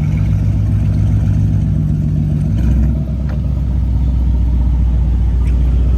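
Car engine running close by with a steady low note; a higher part of the tone stops about two and a half seconds in, leaving a deeper rumble.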